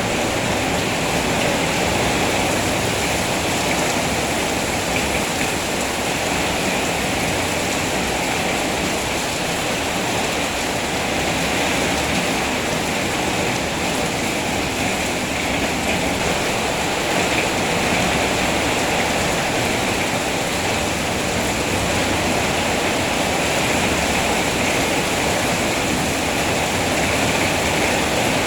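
Heavy rain falling steadily, an even, unbroken hiss with no single drops, thunder or other events standing out.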